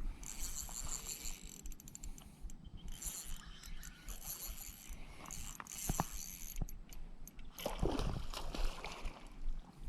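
Fishing reel being cranked and clicking in stretches while the line is under load from a hooked Asian seabass, with a few sharp knocks along the way.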